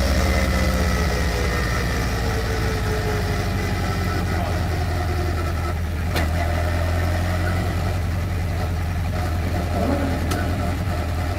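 Westfield race car engine heard from on board, running at low, steady revs near idle after its pitch eases down in the first couple of seconds. There is a sharp click about six seconds in and another about ten seconds in.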